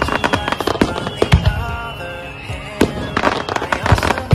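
Fireworks going off: a rapid run of bangs and crackles, thickest about a second in and again near the end, with background music playing underneath.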